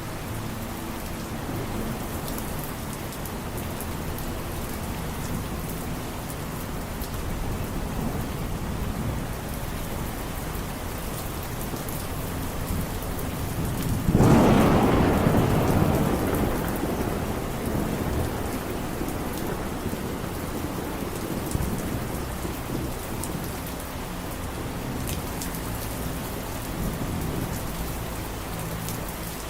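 Steady rain falling, with a loud clap of thunder about halfway through that rumbles and fades away over several seconds.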